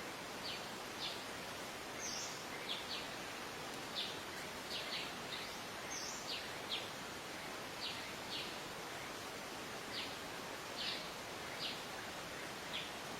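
Wild songbirds calling outdoors: short, sharp, high chirps repeated about one or two times a second, over a steady hiss of background noise.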